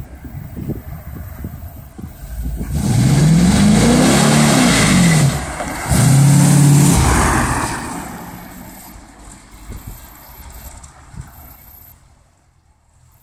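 Custom 1957 Chevrolet's engine and exhaust as the car accelerates hard past and drives away. It rumbles low at first, turns loud about three seconds in with the pitch rising and falling, dips briefly around five and a half seconds, comes back loud, then dies away into the distance.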